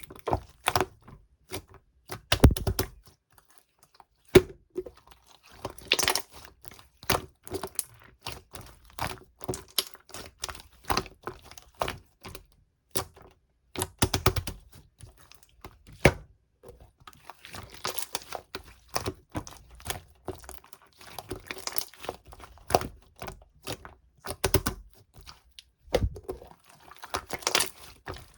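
Slime being squished, pressed and stretched by hand, giving dense, irregular sticky clicks and pops.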